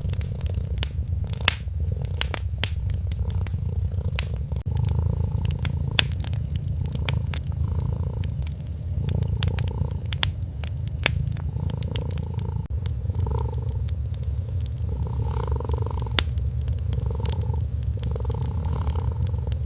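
A cat purring steadily in a low, pulsing rumble, over a wood fire crackling with frequent sharp little pops.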